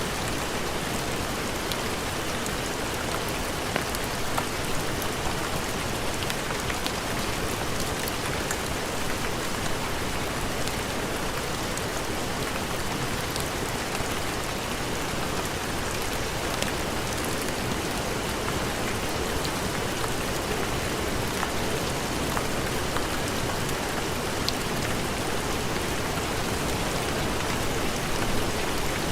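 Steady heavy rain falling, an even hiss with scattered sharp ticks of drops.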